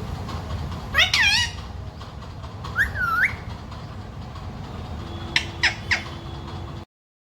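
Pet green parrot calling: one wavering call about a second in, a second call that dips and rises near three seconds, then three short sharp calls in quick succession; the sound cuts off shortly before the end.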